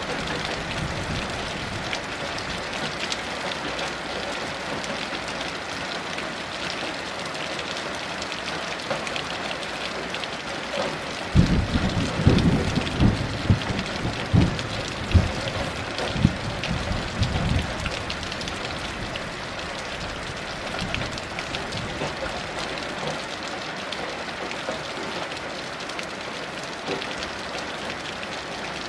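Heavy rain falling in a steady hiss. About eleven seconds in, a roll of thunder breaks in as a series of deep cracks and rumbles lasting about seven seconds, the loudest thing here, then fades back under the rain.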